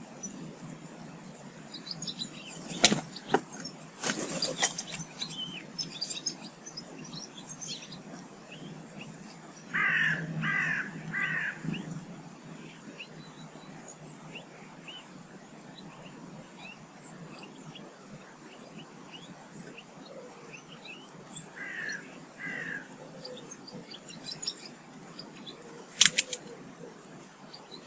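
Small garden birds chirping and twittering, with a crow-family bird giving three harsh caws about ten seconds in and two more past the twenty-second mark. A few sharp knocks or clicks stand out.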